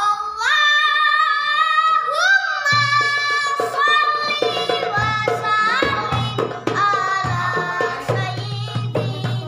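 A child sings a sholawat in a high voice, holding long ornamented notes. About three seconds in, rebana frame drums join in banjari style with a steady beat.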